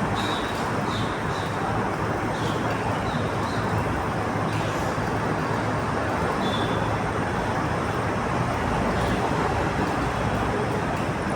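Steady background noise of road traffic, an even rumble with no distinct events.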